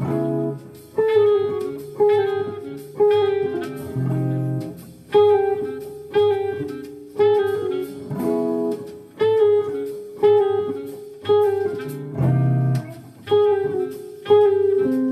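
Guitar playing a slow jazz tune, plucked notes and chords struck about once a second, each ringing and fading, with lower bass notes underneath.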